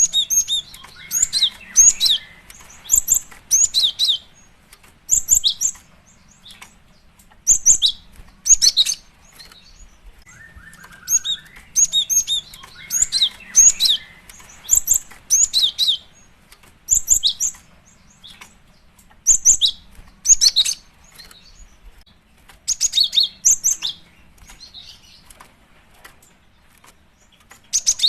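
Female cinereous tit (gelatik batu) calling: quick clusters of sharp, high, downward-sweeping notes in bursts every second or two. The sequence repeats about every ten seconds, as in a looped recording. It is the female's call to a male.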